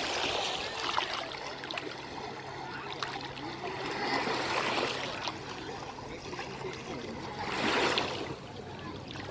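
Small sea waves washing in on the beach and draining back, swelling about three times.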